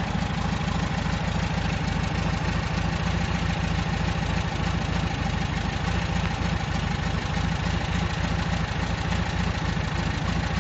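Volkswagen 1800 cc engine with a two-barrel carburettor idling steadily, with an even, rapid pulse.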